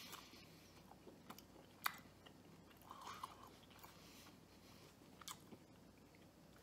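A person chewing a soft, doughy bread bite with the mouth closed: faint, wet mouth clicks and smacks, the sharpest one just under two seconds in.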